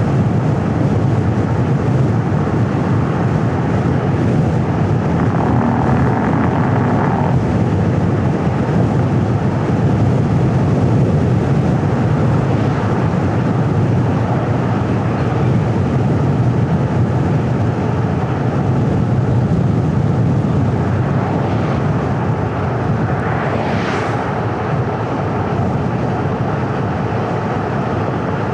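Steady road and traffic noise from a car being driven, with a short falling whoosh of something passing about two-thirds of the way through.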